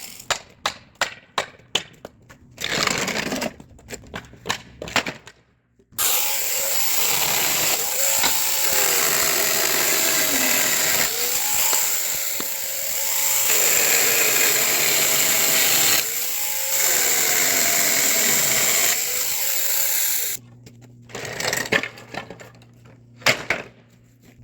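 Chainsaw cutting through wooden pallet boards for about fourteen seconds, its pitch dipping and recovering again and again as the chain bites. Before it comes a quick run of sharp knocks, and more scattered knocks follow after it stops.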